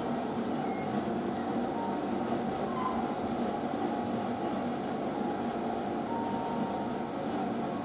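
Western-style toilet's water running steadily as it flushes and refills: an even rushing without breaks.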